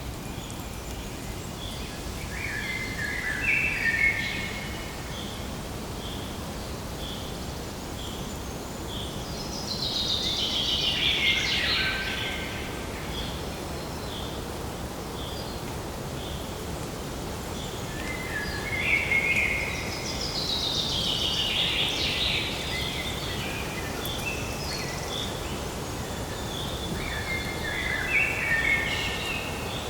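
Several birds calling over a steady background hiss. One repeats a short high note a little more than once a second. Others give clusters of stepped chirps and two longer, falling, warbled songs about ten seconds apart.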